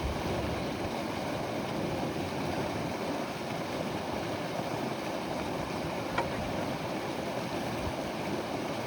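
Steady rushing and lapping of river water around a bamboo raft on the move, with one short click about six seconds in.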